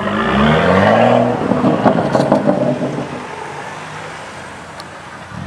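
BMW M2's turbocharged straight-six accelerating hard away, its note climbing steeply, then a few sharp exhaust crackles about two seconds in before the sound fades as the car drives off.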